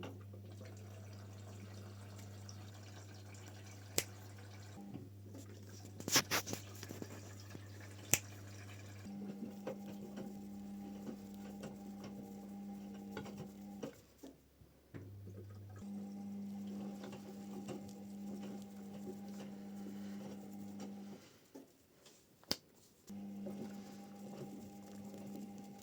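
Washing machine starting its cycle and taking in water: a steady low hum for about nine seconds, then a hum that runs for about five seconds at a time with short pauses between, with a few clicks and water sounds.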